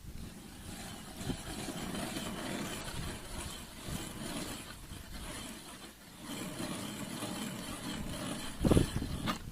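Strong wind buffeting the microphone in a blizzard, a dense rumbling rush with a heavy thump near the end.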